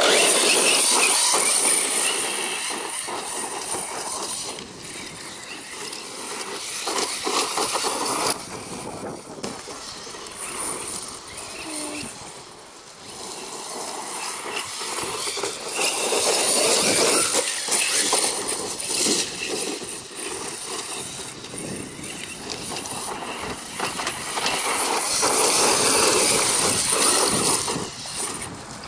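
Radio-controlled DHK Maximus truggy's Leopard 4074 2000Kv brushless motor and geared drivetrain whining as it drives over dirt, the whine rising and falling with throttle over a noisy rush of tyres and gravel. It swells loudest near the start and twice more later.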